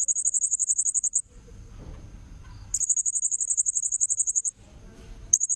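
Blue-crowned hanging parrot (serindit) lure call: three bursts of rapid, very high-pitched chittering trills, the middle one longest, over a faint steady high thin tone.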